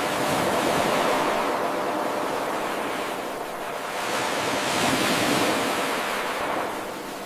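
Ocean waves breaking and washing in, a continuous surf noise that eases about three seconds in and swells again.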